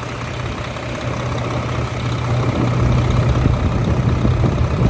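Mack MP7 inline-six diesel engine idling steadily, heard close up at the open engine bay, with an even low drone. It is being checked for blow-by and is judged to be running clean and healthy.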